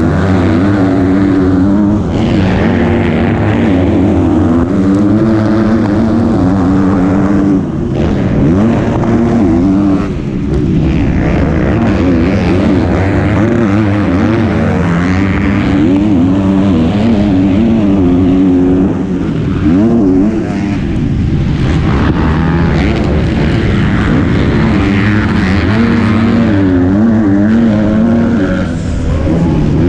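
MX2-class motocross bike engine racing, revving up and easing off over and over as the rider works the throttle and gears. There are brief drops in level about 8, 10 and 20 seconds in.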